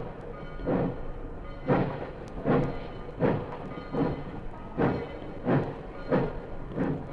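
Steam locomotive exhaust chuffing in a regular beat that comes steadily faster, as the engine picks up speed.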